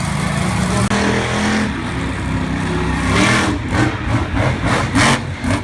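Monster truck engine revving hard, its pitch shifting up and down, with a run of short sharp cracks in the second half.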